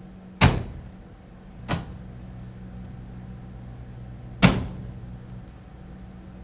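Clothes dryer door shut with a loud bang, then a lighter click and a low hum, then another loud bang. The hum dies away about a second after the second bang.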